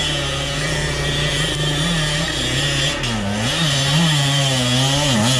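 Enduro motorcycle engine running at a steady pitch, then revved up and down several times in quick throttle blips from about three seconds in.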